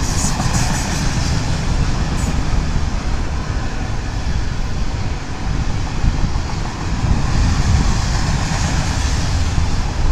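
Union Pacific freight train of autorack cars rolling past close by: a steady rumble of steel wheels on rail.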